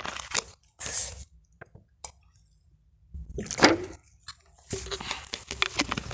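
Someone drinking from a bottle in a few sips and gulps, with wet, squishy handling noises, and a quiet pause between about one and three seconds in.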